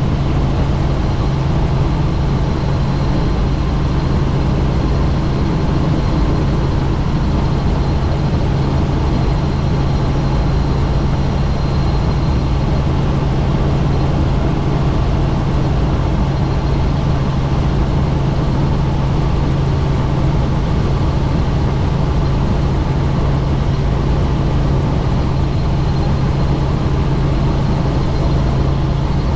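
Helicopter in flight, heard from inside the cabin with the doors off: a steady low rotor and engine drone over dense wind rush, with a faint high whine.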